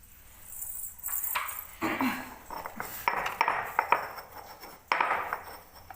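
Hand grinding stone scraping and clinking against its stone base as cumin and pepper are crushed, in a few rough spells with sharp knocks.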